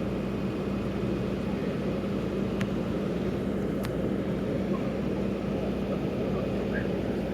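A vehicle engine running steadily with a constant low hum, with two short clicks a little over a second apart near the middle.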